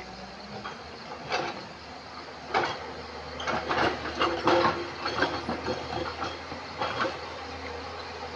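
JCB excavator at work among river stones: irregular knocks and scrapes of rock against the steel bucket, with the machine's engine running steadily underneath.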